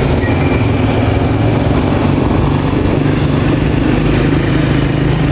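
A vehicle's engine running steadily while driving along a street, with a constant low hum under road and traffic noise.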